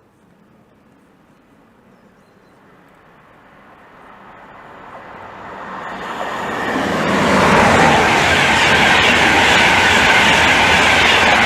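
LNER InterCity 225 train (Class 91 electric locomotive, Mark 4 coaches and driving van trailer 82233) approaching and passing. Its noise grows from faint over the first several seconds and is loud and steady from about seven seconds in.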